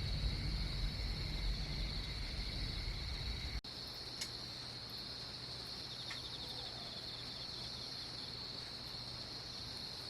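A steady, high chorus of chirping insects such as crickets, with a low rumble under it for the first three and a half seconds or so.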